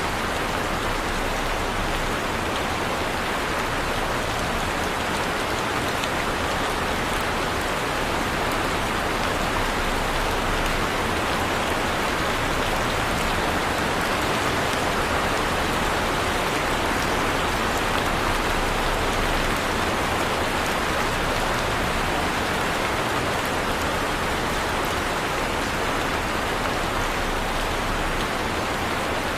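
Heavy rain falling steadily, a dense even hiss with faint scattered drop ticks, not changing in level.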